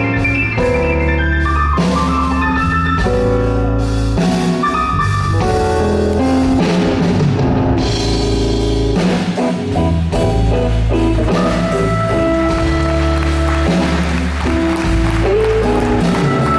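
Live blues band playing an instrumental passage with no vocals: drum kit, bass and melodic instruments.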